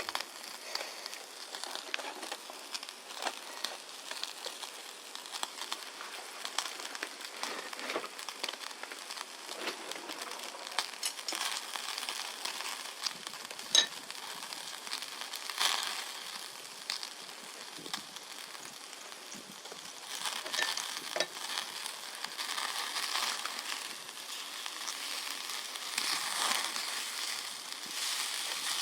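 Wagyu beef sizzling on a small charcoal grill: a steady hiss with scattered crackles and pops from fat spitting over the hot charcoal.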